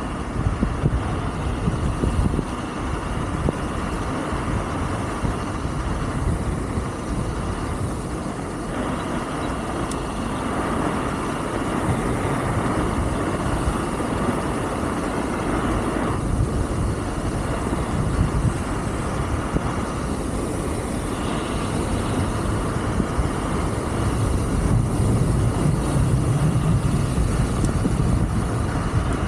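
Steady rush of wind on the microphone mixed with tyre noise as a Wolf King GT Pro electric scooter rides along a gravel-and-sand road, growing a little louder near the end.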